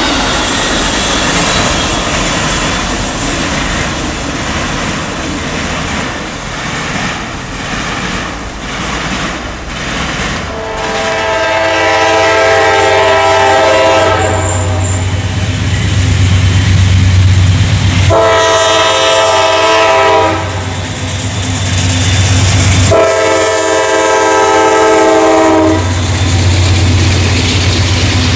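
Amtrak Auto Train autorack cars rolling past with rhythmic wheel clatter on the rails. Then a CSX freight train's horn sounds three long blasts as its diesel locomotives approach and pass, their engines droning low and steady between the blasts.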